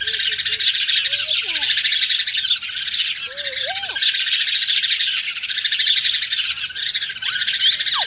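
Birds chirping densely and without pause in a high register, with a few separate lower sliding calls now and then.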